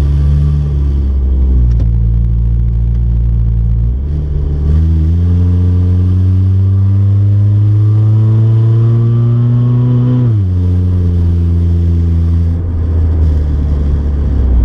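Car engine with a cheap homemade exhaust, heard from inside the cabin, accelerating through the gears: the engine note climbs steadily for about five seconds, drops sharply at a gear change, then holds steady.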